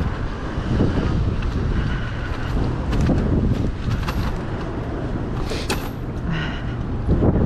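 Wind rumbling on a chest-mounted camera's microphone while riding a bicycle, mixed with tyre and road noise, with a few sharp clicks or rattles, one about three seconds in and another a little past five seconds.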